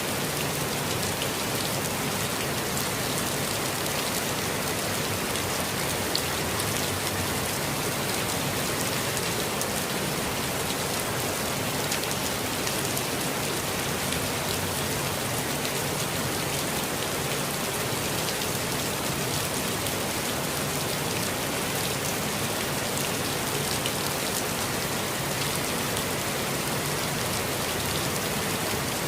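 Steady rainfall in a forest, a dense even hiss of drops with fine patters of individual drops on leaves and ground.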